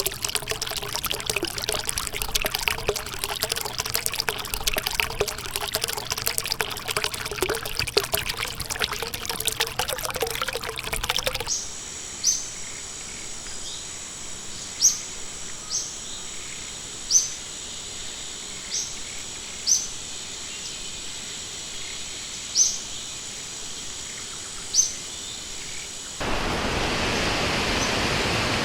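Stream water trickling and splashing, then an abrupt cut to a quieter stretch with a steady high-pitched tone and a bird giving short chirps every second or few, then another abrupt cut, about two seconds before the end, to a steady rushing noise like a waterfall.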